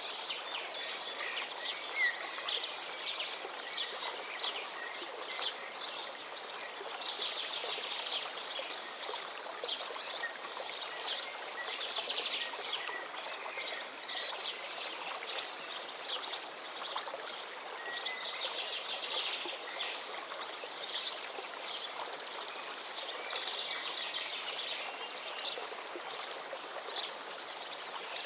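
River water flowing in a steady rush, with many small birds chirping and trilling over it and a fast, high ticking trill that comes and goes.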